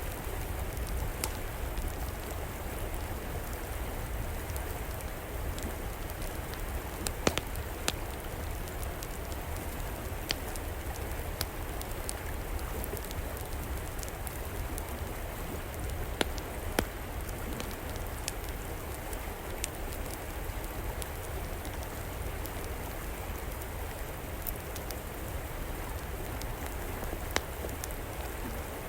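River water flowing with a steady rush, over which an outdoor wood fire crackles with scattered sharp pops, several standing out about 7, 8, 16 and 27 seconds in.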